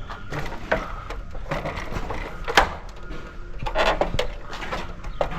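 Irregular knocks and clatters, the sharpest about two and a half seconds in, over a low steady rumble.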